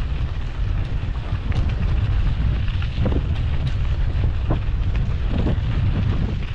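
Wind buffeting the microphone of a camera on a moving mountain bike, a steady low rumble, with a few short rattles and knocks from the bike over rough ground.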